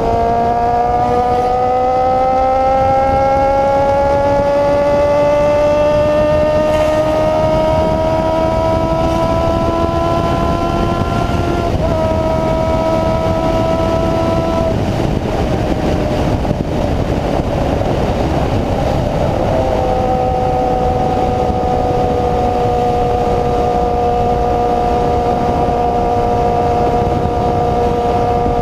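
Honda CB-1 400's inline-four engine with a free-flow exhaust, under way: its pitch climbs slowly for about twelve seconds, steps at a gear change, eases off, then holds steady for the last several seconds, over a constant rushing noise.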